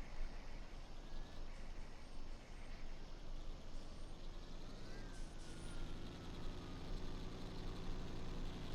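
Trucks running amid a noisy outdoor din. About five seconds in, a whine rises briefly and then falls slowly, while a steady low engine hum grows stronger, as from a truck engine close by.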